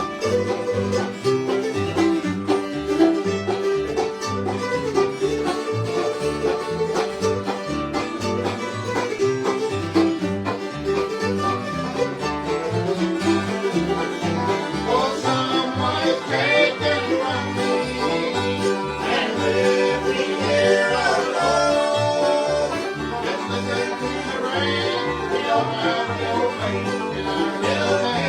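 Bluegrass band playing an instrumental break without singing: banjo and guitar picking a steady beat with a fiddle. About halfway through, a lead line starts sliding up and down in pitch.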